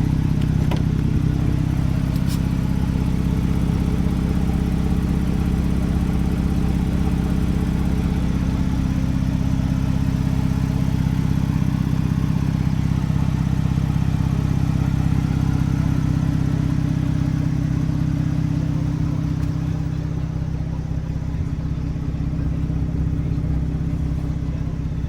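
Porsche 911 GTS's twin-turbo flat-six idling steadily, a low even hum that eases off slightly near the end.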